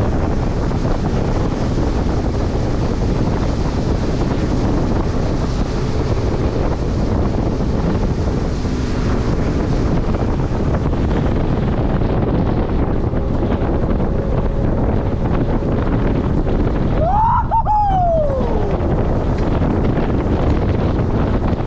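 A Carolina Skiff under way: wind buffeting the microphone over the rush of water along the hull, loud and steady. About 17 seconds in, a short pitched tone rises and then falls away.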